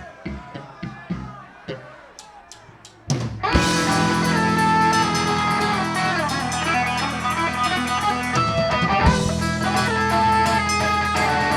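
Live rock band between songs: an electric guitar picks a few quiet single notes, then a short run of quick sharp clicks, and about three seconds in the full band comes in loud with distorted guitars, bass and drum kit, playing on steadily.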